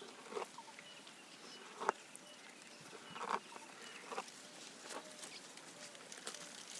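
Giraffe feeding: irregular faint crunches and snaps of leaves being stripped and chewed, about one a second, with a few short bird chirps.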